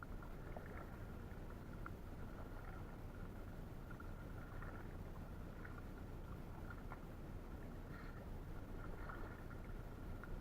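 Canoe paddle working the water beside an inflatable canoe: faint, scattered splashes and drips over a steady low noise.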